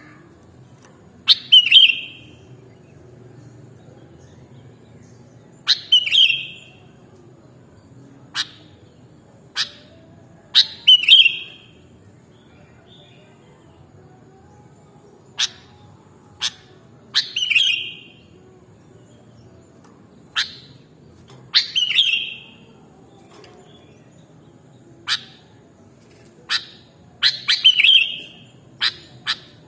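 Sooty-headed bulbul (kutilang) calling. Short, sharp notes, each often followed by a brief bubbling phrase, repeat every few seconds.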